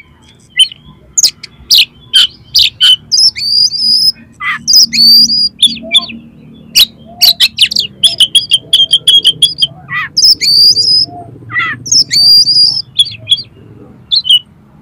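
Oriental magpie-robin (kacer) singing a fast, varied song of harsh, rasping notes mixed with whistled phrases, with a quick run of repeated notes about two-thirds of the way through.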